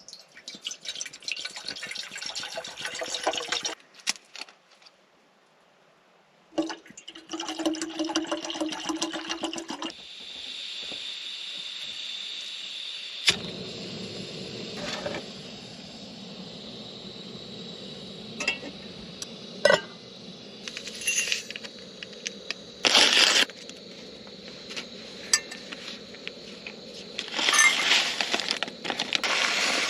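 Camp breakfast being made: water poured twice in the first ten seconds, then a gas camp stove burner hissing steadily, with sharp metal clinks of pot, mug and spoon now and then.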